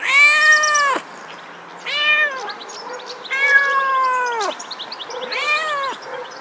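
A cat meowing four times, long drawn-out meows with short pauses between, each dropping in pitch as it ends.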